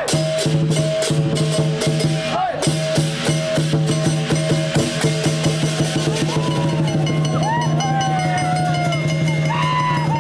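Festive percussion music: rapid, dense drum and cymbal beats over steady sustained tones, with voices calling out in the second half.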